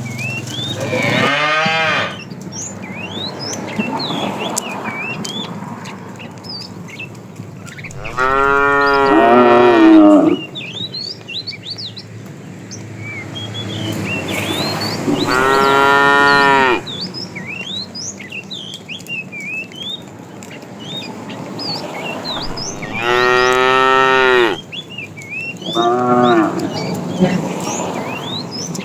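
Cattle mooing: five long moos spaced several seconds apart, the loudest about eight seconds in. Birds chirp throughout.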